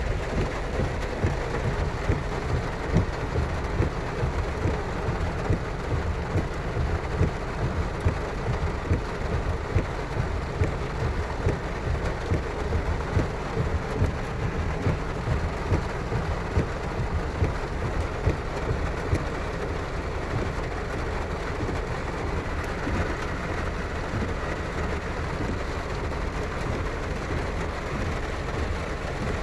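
Heavy rain pouring down, a dense steady hiss with a deep rumble beneath it and irregular louder surges through most of the first two-thirds, settling steadier near the end.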